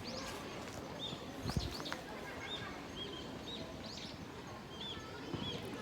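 Small birds chirping repeatedly in short, arching calls over a steady outdoor background noise, with one dull thump about a second and a half in.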